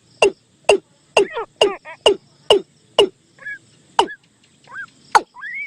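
Decoy recording of the นกตูม bird's call: sharp, quickly falling calls repeated about twice a second, mixed with short higher whistles, thinning out to softer rising and falling whistles in the second half.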